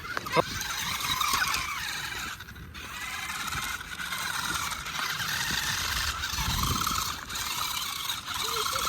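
Toy RC stunt truck's small electric motor and gearbox whining steadily as it drives, dipping briefly about two and a half seconds in.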